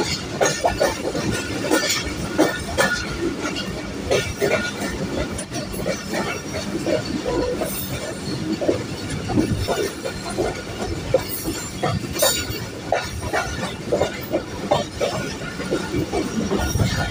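Passenger train coaches running over jointed track, with wheels clacking at the rail joints and high wheel squeal coming and going as the train takes a curve.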